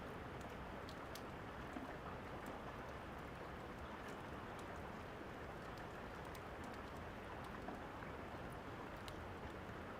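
Steady rain falling, with scattered sharp crackles of a fireplace over it.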